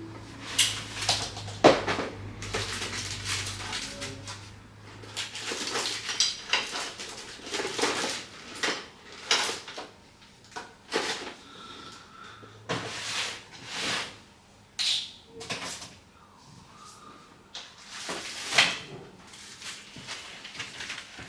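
Small tools and phone parts being handled on a repair bench: irregular clicks, taps and short scrapes, with a low hum over the first few seconds.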